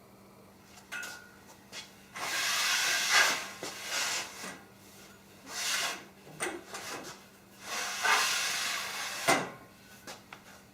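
Aluminium-extrusion bridge of a track-saw table sliding back and forth along its fixed rail. It makes a hissing rub in several strokes of about a second each, with light knocks between them and a sharp knock about nine seconds in. It slides freely without binding.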